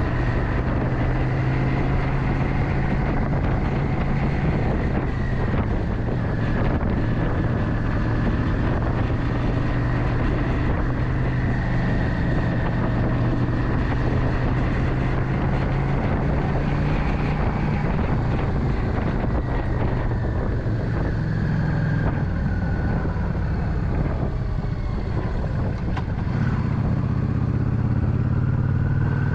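Motorcycle engine running steadily under way, its pitch shifting a little with the throttle, with wind noise on the microphone. The engine eases off for a few seconds past the middle, then picks up again near the end.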